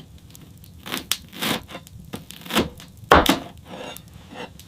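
Footsteps crunching through snow: a run of uneven crunches, the loudest a little after three seconds in.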